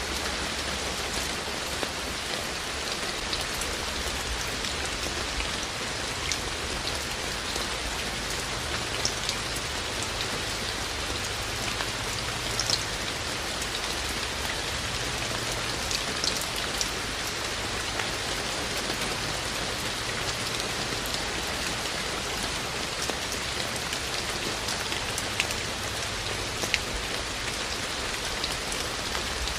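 Steady rain falling, an even hiss with many separate drops ticking sharply on nearby surfaces.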